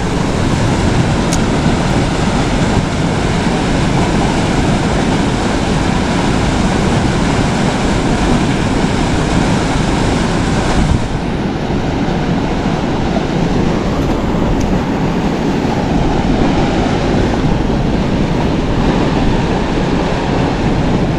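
Loud, steady rush of a river's flowing water, an even noise with no breaks; it grows a little less hissy from about halfway.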